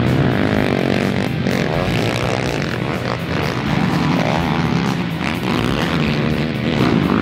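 Several racing ATV engines revving hard together, their pitch rising and falling as the riders shift and work the throttle.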